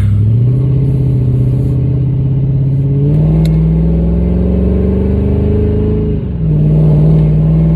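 Supercharged 5.4-litre V8 of a Mercedes CL55, breathing through long-tube headers, no catalytic converters and a Borla exhaust, pulling hard under acceleration, its note climbing steadily for about six seconds. The pitch then drops briefly as the transmission shifts up, and the engine settles into a steady, lower drone.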